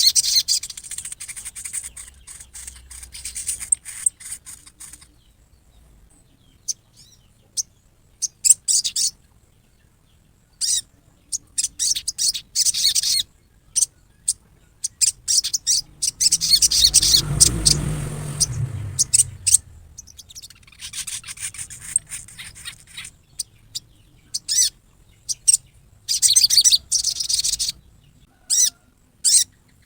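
Sogon (chestnut-backed scimitar babbler) giving its harsh, rapid rattling 'riwikan' call in bouts a few seconds long with short pauses between, a call used to provoke rival sogon. A brief low rumble comes about halfway through.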